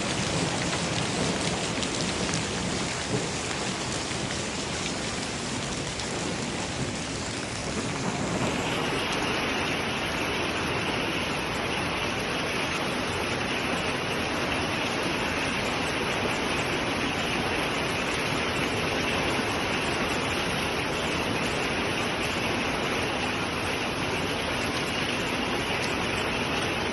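Hailstorm pelting down with rain, a dense, steady patter and hiss of stones and water striking surfaces. About eight seconds in the sound changes to a brighter, sharper hiss.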